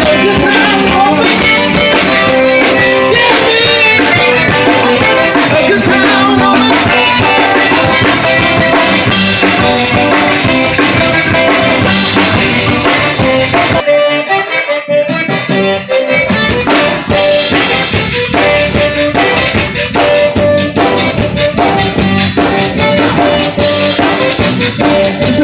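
Zydeco band playing live: accordion over a drum kit with a steady beat. About fourteen seconds in, the bass and drums drop out for a couple of seconds, then come back in.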